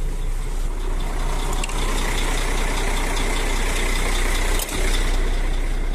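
Diesel engine of a semi-truck tractor idling steadily. A faint high whine rises over it in the middle, and a single knock comes near the end.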